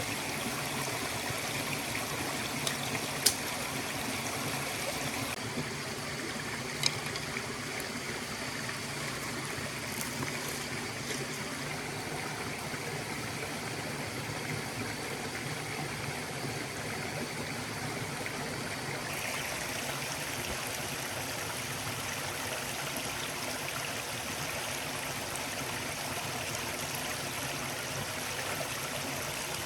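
Forest stream flowing and gurgling steadily, with two sharp clicks about three and seven seconds in.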